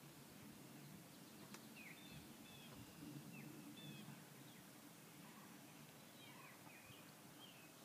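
Faint outdoor birdsong: scattered short chirps from songbirds over a low, steady background hum, with a single faint click about a second and a half in.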